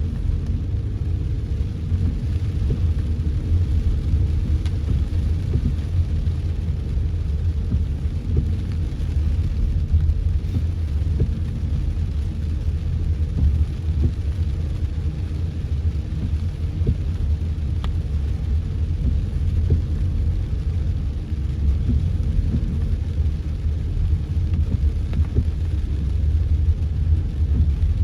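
Car driving through heavy rain: a steady low rumble, with faint scattered ticks throughout.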